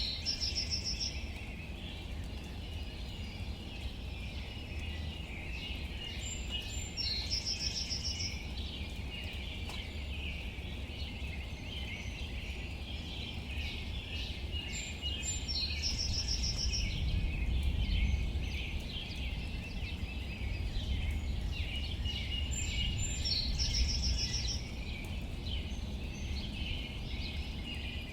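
Steady light rain falling on leaves, thick with tiny drip ticks. A bird repeats a short high song phrase about every seven to ten seconds, four times.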